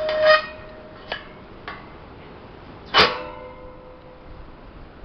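Two loud clanks that ring on briefly, one at the start and one about three seconds in, with two light clicks between them.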